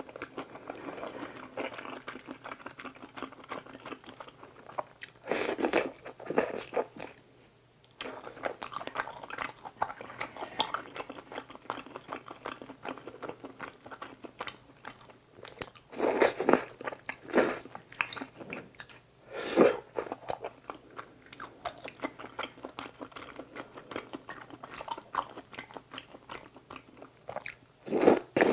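Close-miked eating sounds of tteokbokki in spicy sauce: steady wet chewing and biting, with a few louder moments and a slurp near the end.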